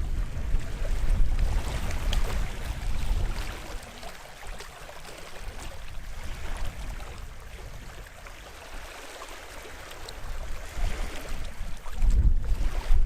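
Small waves washing on the shore of the bay, a steady hiss that swells and eases. Wind buffets the microphone with a low rumble at the start, dies away after about four seconds, and comes back strongly about a second before the end.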